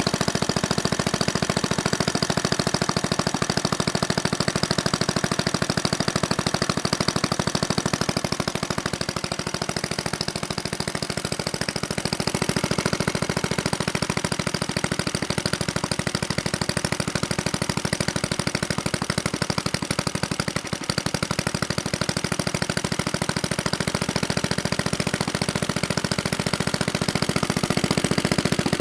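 Small single-cylinder Clinton engine running steadily at idle with a rapid, even firing beat, newly brought back to life after about 45 years unused. The beat softens slightly around a third of the way in and dips briefly about two-thirds through.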